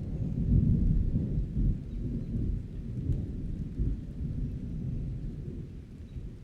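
Thunder rumbling low and rolling, loudest in the first two seconds and easing off toward the end, over steady rain.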